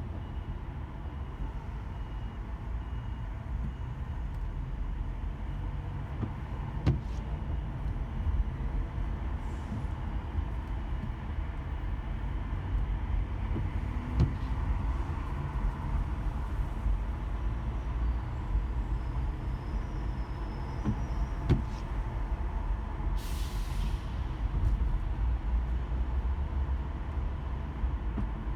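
Steady low rumble of a car in slow traffic, heard from inside the car in light rain, with a few scattered sharp ticks and a brief high hiss about twenty-three seconds in.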